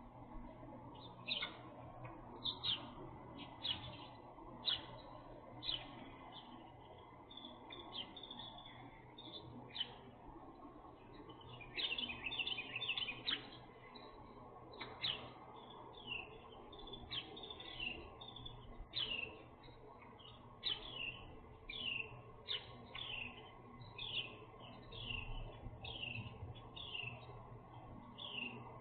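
Small birds chirping: short, high chirps repeated about once a second, with a flurry of overlapping calls about twelve seconds in. A faint steady low hum runs underneath.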